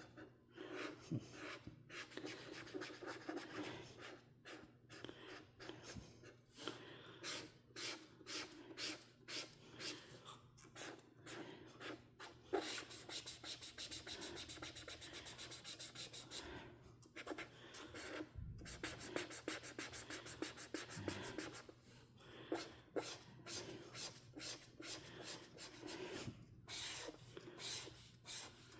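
Coloring strokes scratching back and forth across a paper coloring page, in quick rhythmic runs with longer stretches of fast continuous shading around the middle.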